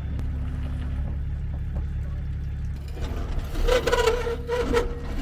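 A truck driving slowly over rough ground, with a steady low rumble of engine and tyres. About three seconds in, a louder scraping, creaking noise with a held squeal-like tone lasts nearly two seconds.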